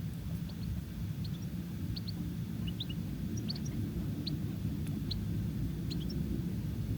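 Small birds chirping: about a dozen short, high chirps scattered over a steady low rumble.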